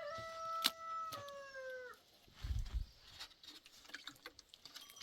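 Rooster crowing: one long, held call that drops in pitch and fades out about two seconds in. A sharp click cuts through it partway, and a brief low thump follows a little after the crow ends.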